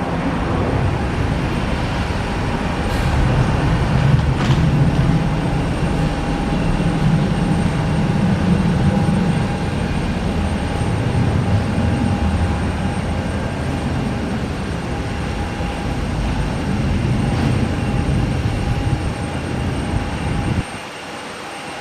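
Jet airliner engines running: a loud, steady rumble with a thin steady whine over it, which cuts off suddenly near the end.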